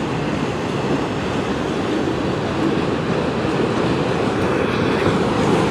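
CN freight train's cars rolling past close by: a steady noise of steel wheels on the rails, growing slightly louder.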